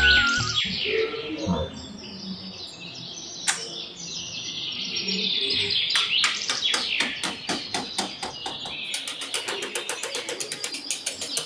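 Birds chirping: many short, high calls, sparse at first and then a quick, dense run of chirps from about halfway in.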